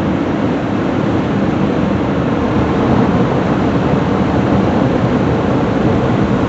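Car wash air dryers blowing a loud, steady rush of air onto the car during the drying cycle of an Istobal Flex 5 in-bay automatic car wash.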